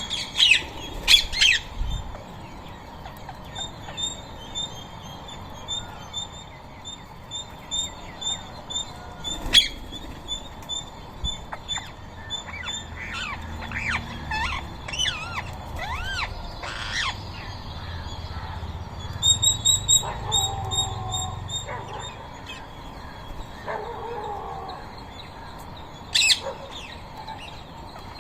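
Wild birds calling, with short harsh screeches typical of rose-ringed parakeets. Between the screeches come runs of quick, high repeated chirps and some gliding calls.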